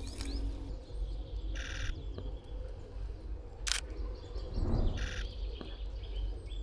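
Two short bursts of a Nikon Z8 mirrorless camera's shutter sound firing in continuous shooting, one about a second and a half in and another about five seconds in, with a single sharp click between them.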